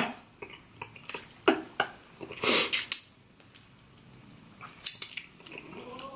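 Close-miked chewing of a soft, sticky cinnamon roll: wet mouth clicks and smacks, with a louder stretch about two and a half seconds in and another near five seconds.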